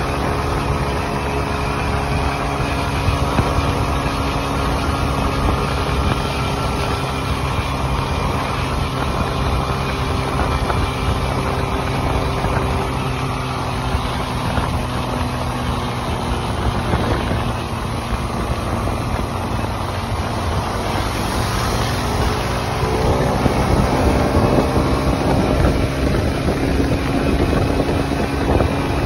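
Small 125cc motorcycle engine running steadily at cruising speed, with wind rushing over the microphone. About three-quarters of the way through, the engine note changes and grows a little louder.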